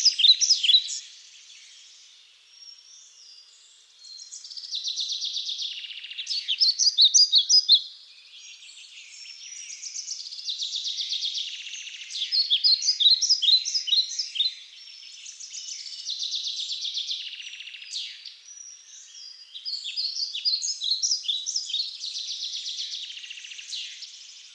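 Small birds chirping and twittering in quick, repeated bursts of high notes, with short lulls between bouts.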